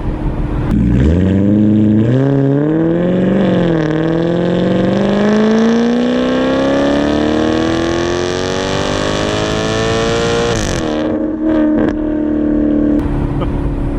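2008 Maserati GranTurismo's naturally aspirated V8, muffler deleted with the resonators kept, accelerating hard. The revs climb steeply, dip briefly, then rise in one long pull for several seconds before dropping suddenly as the throttle closes. A few crackles follow, then it settles to a steady lower hum.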